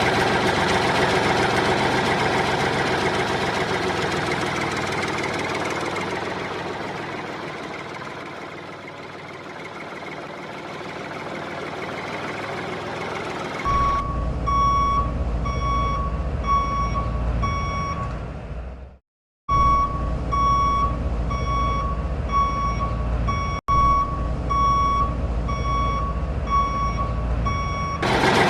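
Vehicle reversing alarm beeping, about three beeps every two seconds, over a low steady hum, starting about halfway through with a brief cut-out near the end; before it, a steady noisy sound that dips and returns.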